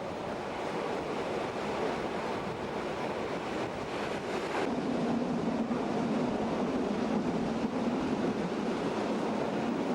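Steam-hauled train running, a steady rushing noise that grows slightly louder, with a low steady hum joining about halfway through.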